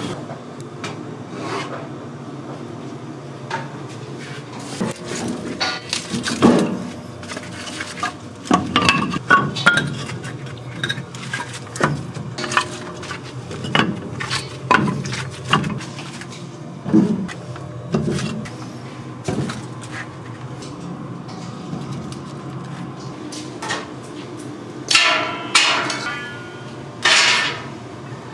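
Kitchen clatter: metal utensils and dishes knocking and clinking at irregular moments, over a steady low hum.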